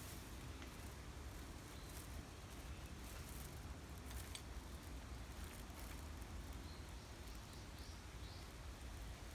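Wind moving through a bamboo grove: a faint, steady rustle over a low rumble of wind, with a few faint clicks in the first half and some faint short high chirps in the second.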